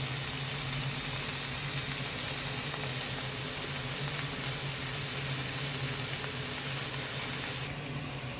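Meat sizzling in a frying pan: a steady frying hiss with a low hum underneath.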